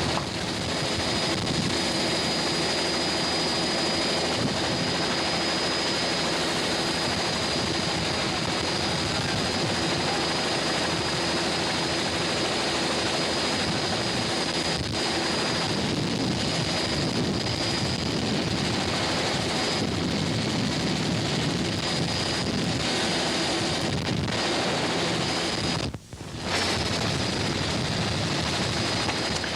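Steady engine and travel noise from a moving vehicle, with a thin, steady high whine over it and a brief dropout near the end.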